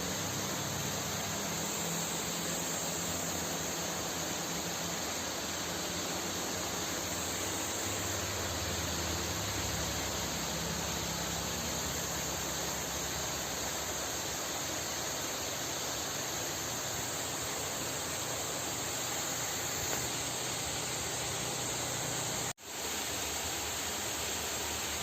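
Steady, even hiss with no calls or other distinct sounds in it; it cuts out for an instant near the end.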